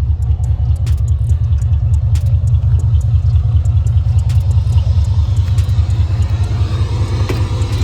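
Steady low rumble of a car, heavy in the bass, with a few faint clicks.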